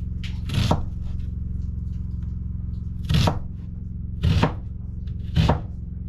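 A knife chopping onion on a board, four separate chops about a second or more apart, over a steady low hum.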